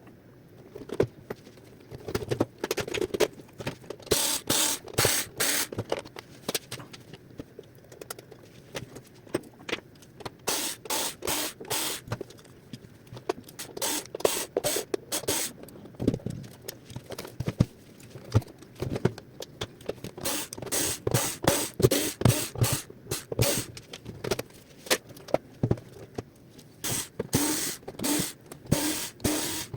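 Hands working on a robot vacuum: irregular short scrapes, clicks and rustles of plastic parts and tools, coming in clusters with brief pauses between them.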